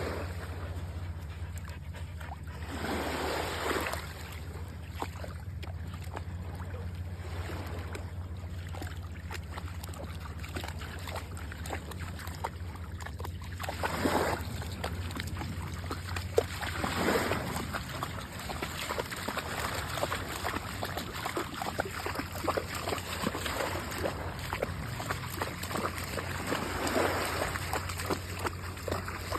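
Boxer dog whimpering and panting, with a few swells of surf washing in over a steady low rumble.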